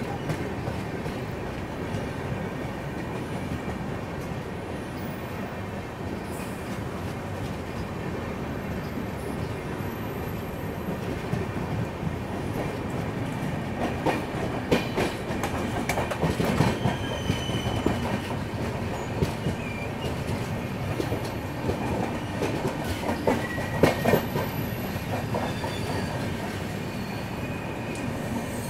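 Passenger train running at speed, heard from an open coach doorway: a steady rumble of wheels on rails. Clusters of sharp clicks and clatter come about halfway through and again later on.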